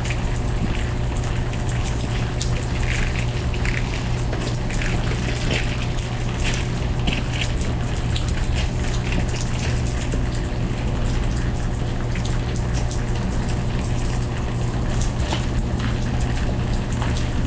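Hot-water pressure washer running, with a steady low hum from its pump and water hissing from the spray wand.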